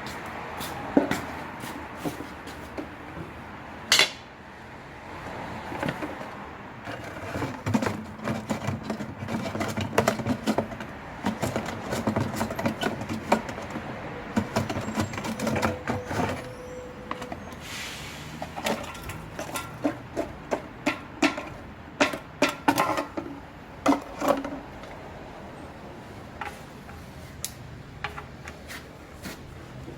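Irregular sharp clicks and metallic knocks of hand tools being worked on a car during an engine oil change, with a dense run of them through the middle.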